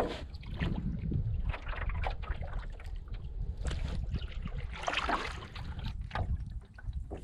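Canoe paddle strokes in lake water, the blade splashing and water trickling off it at irregular intervals of about a second, over a steady low rumble of wind on the microphone.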